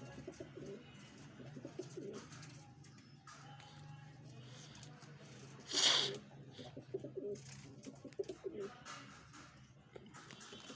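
Pet birds calling in a small room: soft low calls and short chirps, with one louder harsh burst about six seconds in, over a steady low hum.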